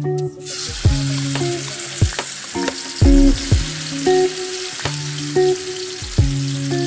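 Ground chili and tomato spice paste sizzling in hot oil in a wok. The sizzle starts about half a second in as the paste goes into the oil, and runs on while a wooden spatula stirs it. Plucked guitar music plays over it.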